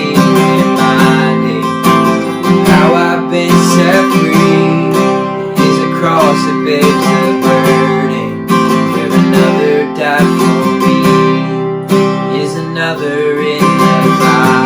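Instrumental interlude of a worship song: acoustic guitar strummed in a steady rhythm over sustained chords from the band.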